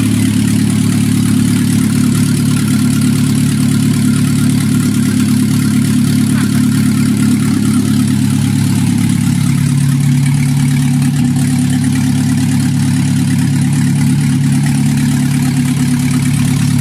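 2-litre petrol engine swapped into a Chevrolet Niva, idling steadily with the bonnet open; the idle note shifts slightly about two-thirds of the way through.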